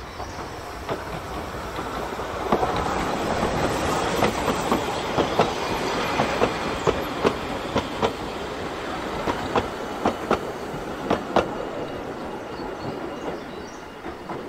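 Narrow-gauge Talyllyn Railway train running past, its wheels clicking over the rail joints. The sound builds about two seconds in and fades near the end.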